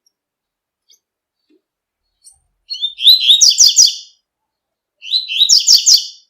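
Double-collared seedeater (coleiro) singing its 'tui-tui' song: two high, fast phrases of rapidly repeated notes, each a little over a second long, the first starting about three seconds in and the second about five seconds in.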